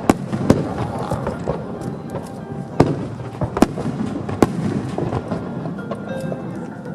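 Aerial firework shells bursting in a run of sharp, loud reports, about five of them, the biggest near the start and between roughly three and four and a half seconds in, over a continuous crackle and rumble of the display.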